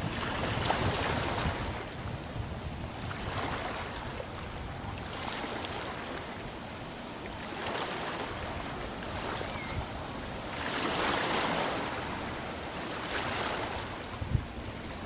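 Water rushing and churning in a passenger ferry's wake, with wind on the microphone and a low engine rumble underneath; the rushing swells and eases every few seconds. A brief knock sounds near the end.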